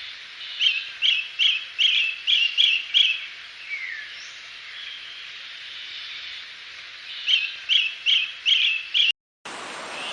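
A bird calling in two runs of quick, repeated chirps, about three a second, over a steady background hiss. The sound cuts out shortly before the end.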